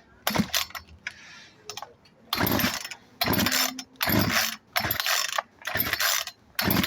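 Craftsman 36 cc chainsaw's recoil starter being yanked six times in quick, even succession, each pull a short ratcheting rasp, without the engine catching. A few light handling clicks come before the pulls.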